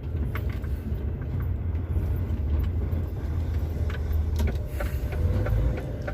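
A truck's engine and road noise heard inside the cab: a steady low rumble, with scattered light clicks and rattles.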